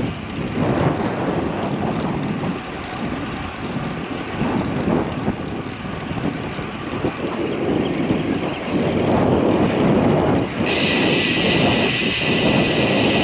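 Wind buffeting the microphone of a camera on a moving road bike, a gusty, uneven rumble. About ten and a half seconds in, a steady higher hiss starts suddenly and carries on.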